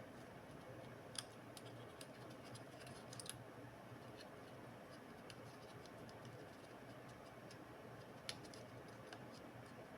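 Near silence over a faint steady hum, with a few faint light clicks, the clearest about a second in and about eight seconds in.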